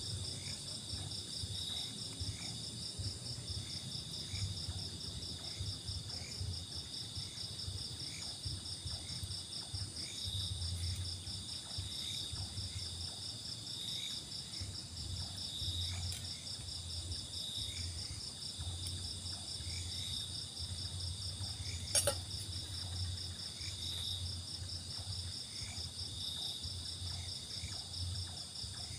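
Night insects such as crickets chirping in a continuous chorus: a steady, rapidly pulsing high trill with shorter chirps repeating over it. One sharp click sounds about 22 seconds in.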